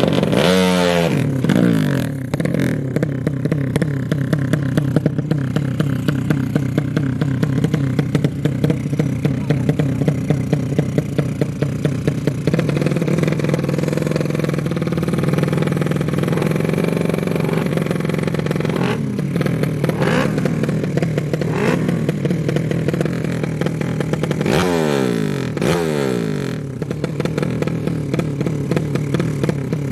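Motorcycle engine running loud and steady at high revs, with the revs dropping away sharply just after the start and again near the end before picking back up.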